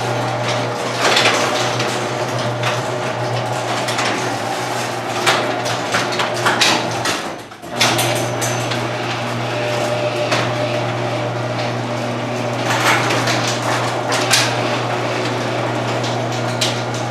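Noisy LiftMaster garage door opener running with a steady motor hum, and the door and its rollers rattling and clacking along the tracks. About halfway through, the sound cuts out for a moment and then starts again.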